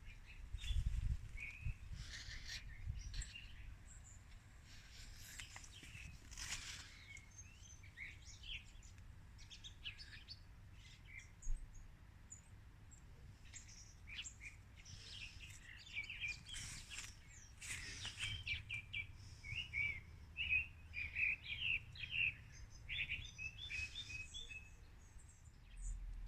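Small birds chirping and calling in short, scattered phrases, with a denser run of rapid chirps in the second half. A faint low rumble sits underneath.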